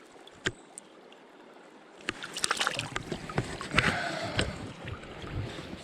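Water splashing and sloshing with knocks and rubbing, starting about two seconds in after a quiet start, as a caught fish is handled and released in the river.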